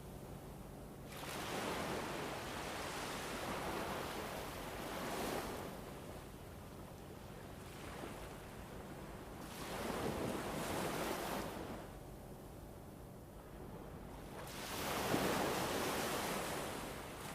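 Ambient soundscape of rushing wind-and-water-like noise, swelling and fading three times in long surges, over a faint steady low hum.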